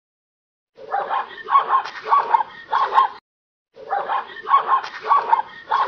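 Zebra giving short, yapping, dog-like barks in bursts of several calls, with the same burst repeated after a short silent gap.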